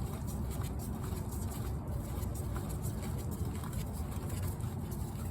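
Faint small scrapes and clicks of the oil filter being turned on by hand, over a steady low rumble.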